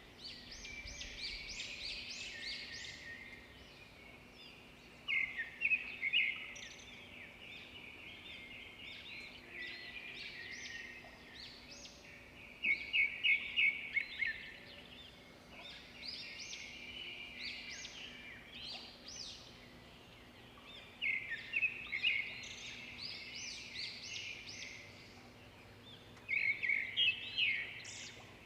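Forest birds singing and chirping, with a loud burst of rapid repeated notes about every eight seconds.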